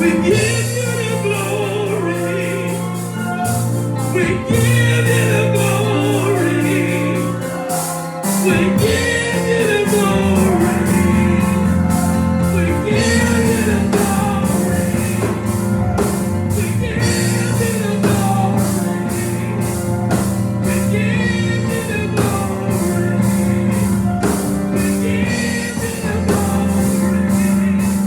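Gospel music with singing over sustained low organ chords and a steady percussive beat.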